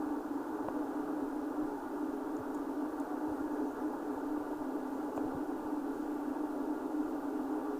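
Steady running noise inside a moving high-speed train carriage: an even hum with a strong low drone that does not change.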